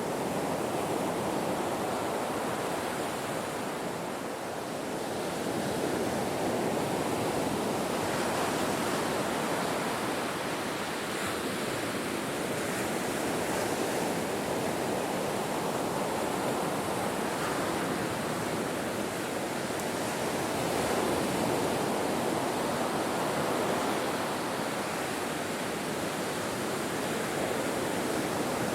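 Ocean waves breaking on a shore: a continuous rush of surf that swells and eases every few seconds.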